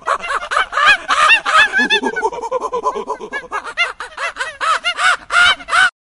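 A troop of macaques calling: many short calls, each rising and falling in pitch, overlapping several a second, cutting off abruptly just before the end.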